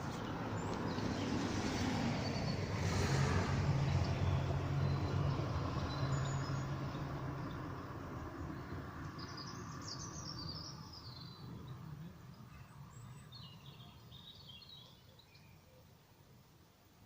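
A passing vehicle's engine hum swells to a peak about four seconds in, then fades away slowly. Birds chirp briefly near the middle and again toward the end.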